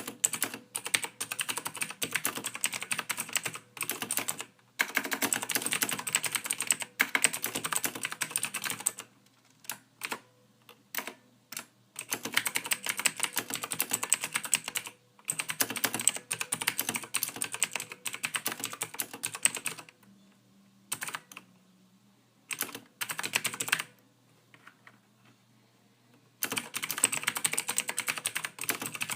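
Soft typing on a computer keyboard: quick runs of keystrokes broken by a few pauses of two or three seconds, with a stray keystroke or two in the pauses.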